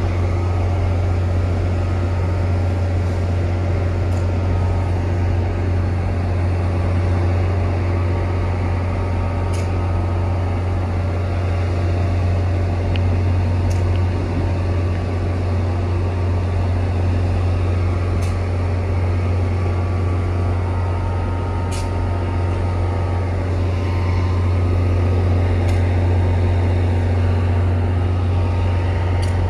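NJ Transit commuter train standing at the platform with its engine and equipment running: a steady low drone with a layer of steady hum above it. A few faint ticks come through now and then.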